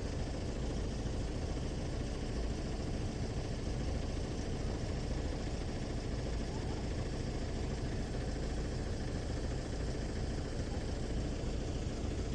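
A vehicle engine idling steadily: a constant low hum that does not change.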